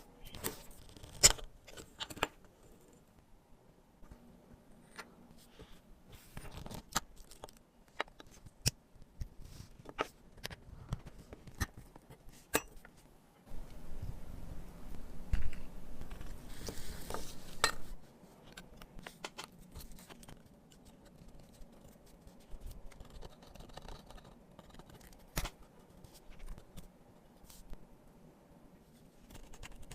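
Small metal watchmaker's tools clicking, tapping and scraping against the parts of a Tissot watch being worked on. Scattered sharp clicks run throughout, with a denser stretch of steady scratching about halfway through that lasts roughly four seconds.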